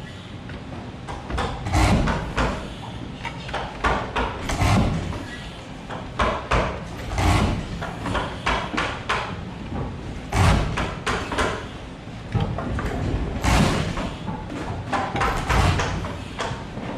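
Irregular knocks and thuds, one every second or two, some with a sharper click.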